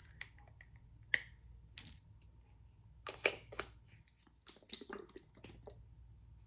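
Crispy fried spiral potato (tornado potato) giving sharp crisp snaps and crackles, a handful of separate cracks spread over a few seconds.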